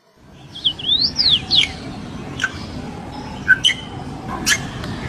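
Birds calling: a run of quick whistled notes sliding up and down in pitch, then separate sharp down-slurred calls every second or so, over a steady background noise that starts abruptly.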